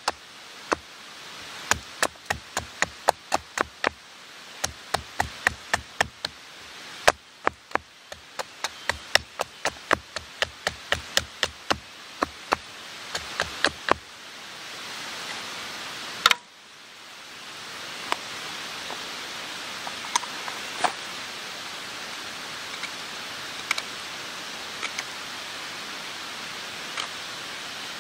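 Small axe chopping wood in quick, even strokes, about two to three a second, for roughly half the sound. One heavier blow follows, then a steady hiss with a few scattered ticks.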